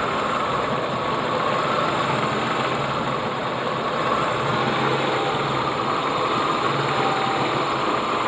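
Ford EL Fairmont Ghia engine idling roughly, heard close up in the open engine bay. The car idles rough on both LPG and petrol and stalls often, which the owner puts down to a faulty engine computer or distributor.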